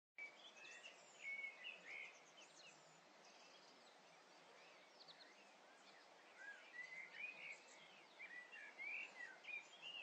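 Faint birdsong: many short chirps and whistles over a steady hiss, busiest in the first couple of seconds and again in the last four.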